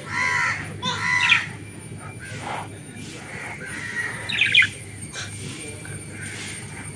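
Birds calling: two short calls in the first second and a half and another brief call about four seconds in, over a low steady hum.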